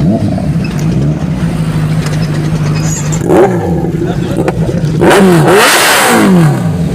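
Superbike engine revving over a steady low engine drone: a short blip about three seconds in, then a louder rev about five seconds in whose pitch climbs and then falls away toward the end.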